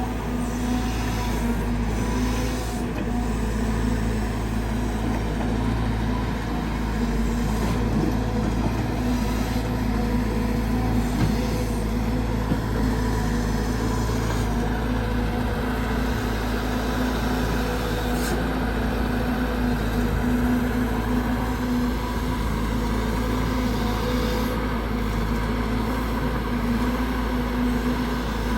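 Caterpillar 320GX excavator's four-cylinder Cat C4.4 diesel running steadily under digging load, with its hydraulic pump working and brief hissy surges every few seconds as the boom and bucket move through hard laterite soil.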